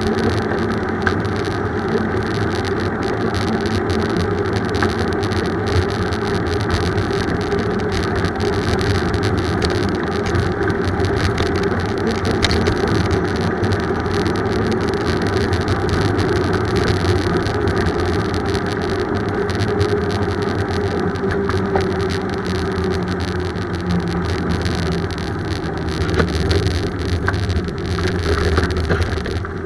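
Steady road and wind noise of a bicycle ride, a continuous rumble and hiss that swells a little near the end.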